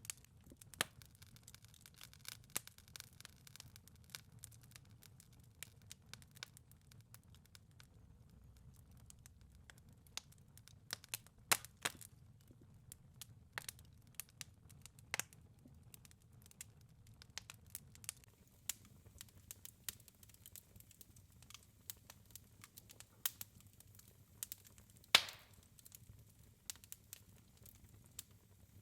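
Wood fire crackling in a fireplace: irregular sharp pops and snaps over a soft low rumble of burning, with one louder pop near the end.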